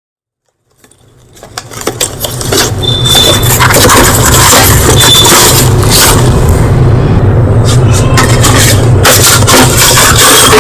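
Close-miked crunching of white chalk, irregular crackling snaps over a steady low hum, fading in over the first two to three seconds.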